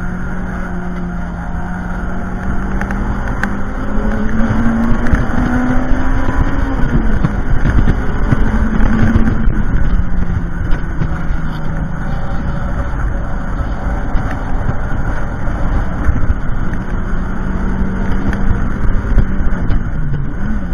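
Toyota MR-S with a swapped-in 2ZZ-GE 1.8-litre inline-four and stock five-speed manual, driven hard on track. The engine note climbs under throttle, falls sharply about 7 and 10 seconds in, holds steady, and dips again near the end, over constant road and tyre rumble.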